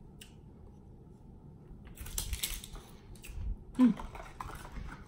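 Crunching of a bite of raw cucumber, then a short hummed "mm" about four seconds in, followed by the crinkle of a paper packet being torn open.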